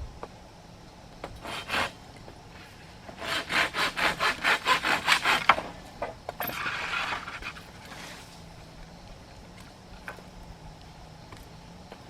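Hand saw cutting wood in quick back-and-forth strokes, about five a second, in a run of a couple of seconds, followed by a shorter scraping rasp.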